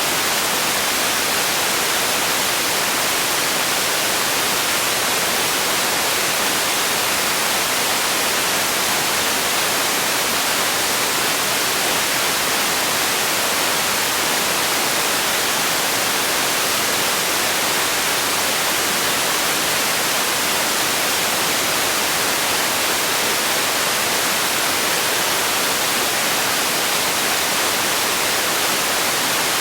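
Steady synthetic white noise: an even, unchanging hiss weighted toward the high end.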